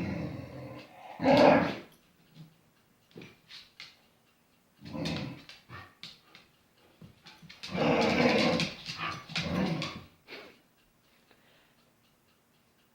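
Dog growling in several bursts, the loudest about a second and a half in, with quiet gaps between.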